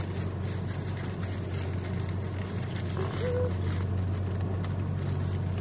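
Steady low hum of a car idling, heard from inside the cabin. A brief murmur of a voice about three seconds in, and a few light clicks near the end.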